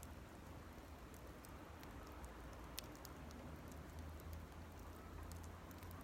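Small wood campfire kindled with dry cedar leaves crackling faintly, with scattered sharp pops and one louder snap about three seconds in.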